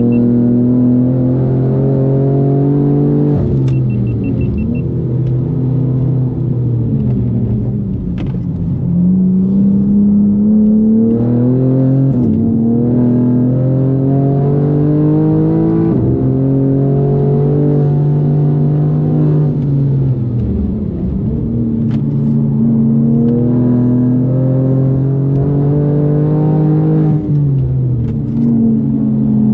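Tuned BMW M4 G82's twin-turbo straight-six engine on a hard lap. The revs climb steadily under acceleration and then drop sharply, over and over, about six times. A few short high beeps sound about four seconds in.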